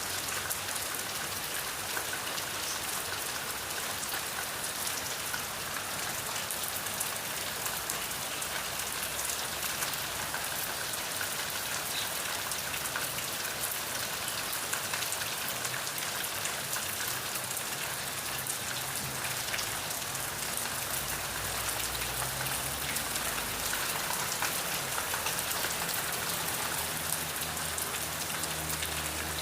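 Steady rain falling, with many separate drops audible in the even hiss. A faint low rumble comes in during the second half.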